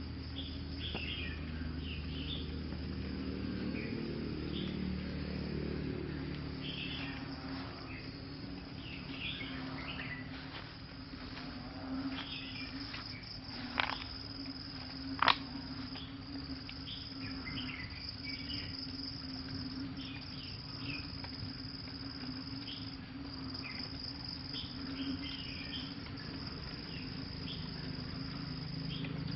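Crickets trilling steadily, with scattered short bird chirps over them. A low rumble fades out in the first few seconds, and two sharp clicks come about halfway through, a second or so apart.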